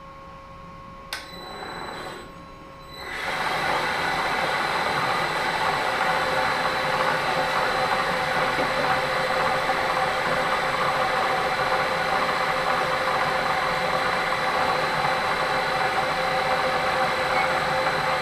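A click about a second in, then a milling machine's spindle motor starts about three seconds in and runs steadily with a constant whine.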